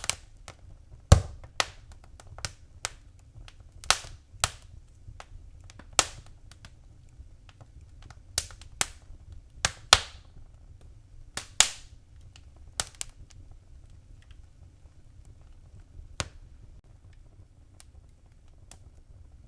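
Wood fire crackling in a fireplace: irregular sharp pops and snaps over a low steady rumble, growing sparser in the last several seconds.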